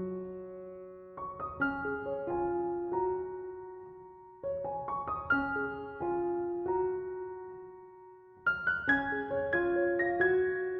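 Background music: solo piano playing a slow, gentle melody in short phrases, each dying away before the next. New phrases begin about a second in and again around four and a half seconds, and a busier, brighter passage starts near eight and a half seconds.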